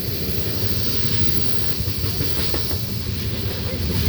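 Loaded coal train rolling by: a steady low rumble of the freight cars' wheels on the rails, with a few light clicks about two seconds in.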